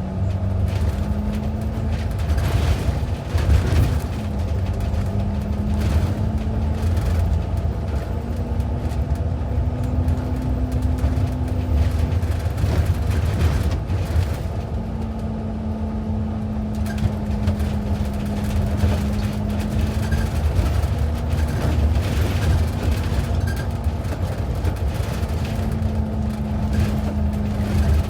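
Inside a moving transit bus: a steady low rumble of engine and road, with a hum that rises and falls slightly in pitch as the bus speeds up and slows, and scattered rattles and knocks from the cabin.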